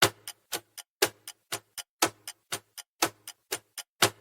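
Clock-tick sound effect of a quiz countdown timer, ticking evenly about four times a second with the first tick of each second loudest.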